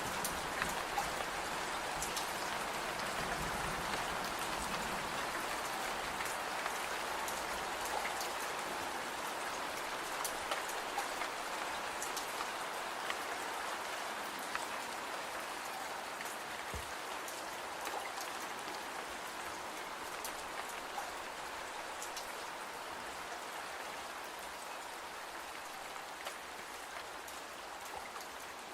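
Steady rain falling, an even hiss with scattered sharp ticks, slowly getting quieter.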